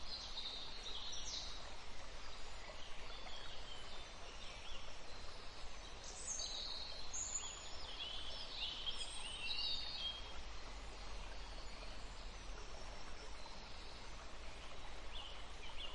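Small songbirds chirping and twittering in short high phrases, in spells near the start, through the middle and again near the end, over a steady faint background hiss.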